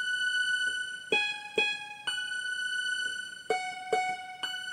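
Instrumental music without singing: a three-note phrase played twice, each note struck and ringing on into the next.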